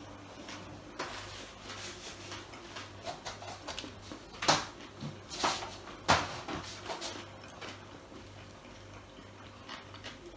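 Close-miked chewing of a mouthful of hamburger, with a few louder, sharp mouth sounds about halfway through.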